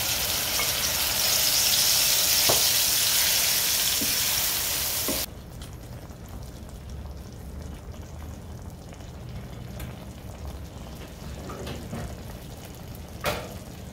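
Squid pieces in a wet coconut, spice and tamarind mix tipped into hot coconut oil in a pan, sizzling loudly, with a few light taps of a wooden spatula. About five seconds in, the sizzle drops abruptly to a much quieter, steady sizzle.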